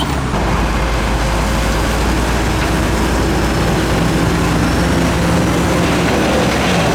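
Bulldozer's heavy diesel engine running steadily with a low, even drone.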